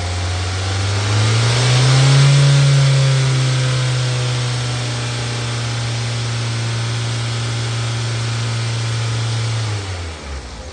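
2016 Hyundai Accent 1.6-litre four-cylinder engine running. It is revved up about a second in, held at a steady raised speed, then drops back toward idle near the end.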